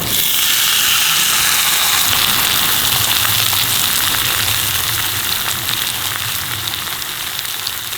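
Steak sizzling over a campfire: a dense steady hiss with many small pops and crackles scattered through it.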